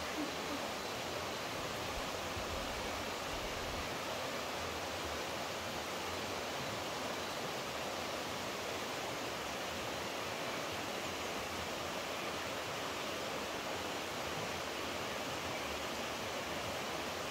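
Steady rushing of running water, an even noise without a break.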